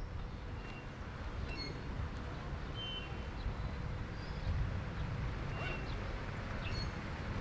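Outdoor ambience: a steady low rumble with short, high bird chirps scattered through it, several times over.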